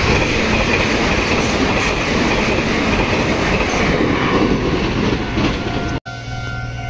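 Meitetsu Panorama Super electric train passing close by at speed, a loud rumble with wheels clattering over the rail joints. It cuts off abruptly about six seconds in, leaving a quieter steady hum.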